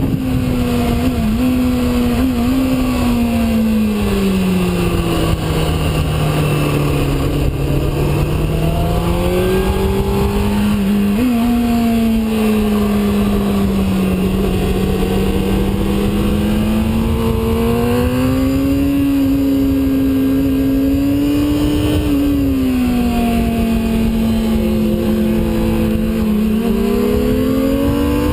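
Sport bike engine running hard on a race track, its pitch sweeping down and back up repeatedly with throttle and gear changes, over a constant rushing noise.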